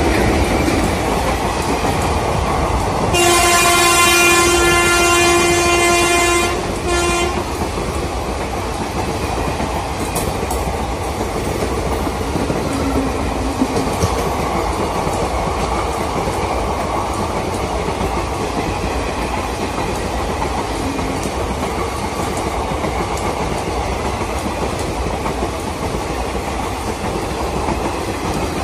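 A train passing, with the steady noise of its wheels on the rails. Its horn sounds one long single-note blast of about four seconds, starting about three seconds in.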